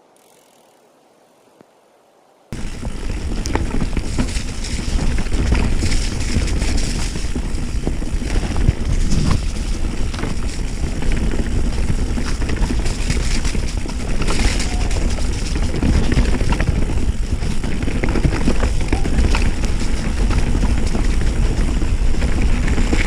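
Mountain bike riding a trail, recorded on the bike or rider: dense wind buffeting on the microphone, tyre rumble and rattling knocks over rough ground. It starts abruptly a couple of seconds in.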